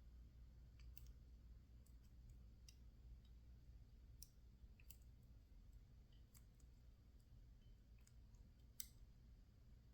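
Faint, scattered metallic clicks of a lock pick working the pin stack of a PacLock 410 Pro padlock held in a false set under tension, with a sharper click near the end.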